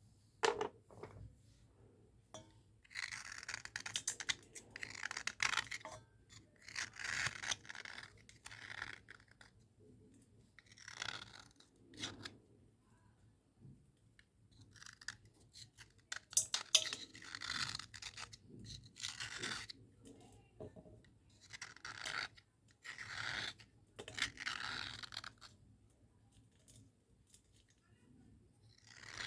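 Cubical slate pencil scrubbing across a dry slate board to clean it: scratchy rubbing strokes of about a second each, in bursts with short pauses between.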